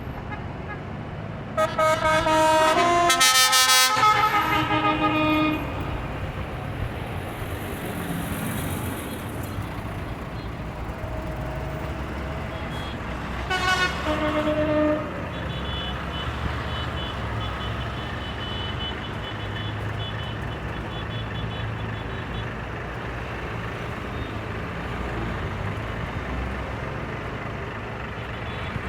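Parade vehicles, chiefly tractors, rumbling past with their engines running steadily. Horns toot loudly for a few seconds near the start and again briefly about halfway through.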